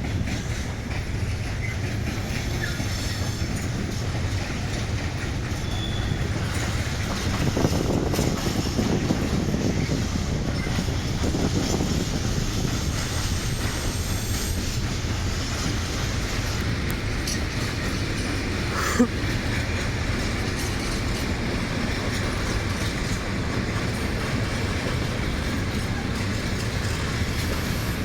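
Freight train rolling past, a steady rumble of wagons with wheels clacking over rail joints and a faint wheel squeal. A single sharp clank about two-thirds of the way through.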